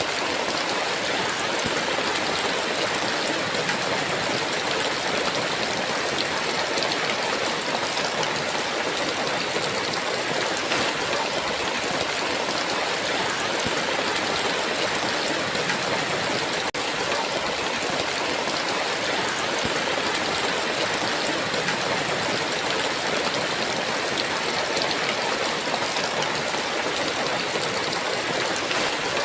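Heavy rain pouring down steadily, an even hiss of water with a very short break in the sound a little past halfway.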